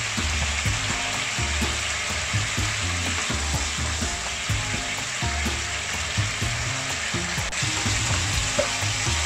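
Thick chicken madras sauce sizzling and bubbling in a non-stick frying pan, with a plastic spoon stirring and scraping through it now and then.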